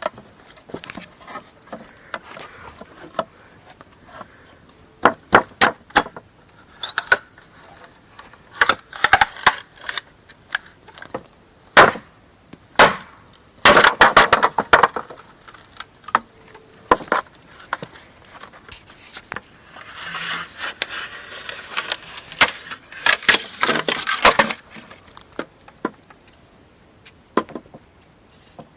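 Wood being chopped and split by hand: irregular sharp knocks and cracks, with denser stretches of splintering and scraping about halfway through and again near the end.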